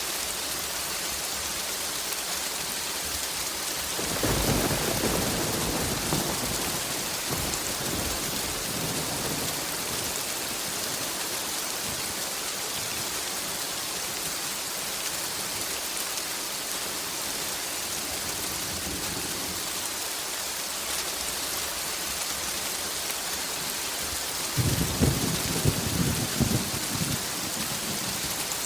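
Steady heavy rain hissing, with a roll of thunder about four seconds in that fades slowly, and a second, louder crackling thunderclap rumbling near the end.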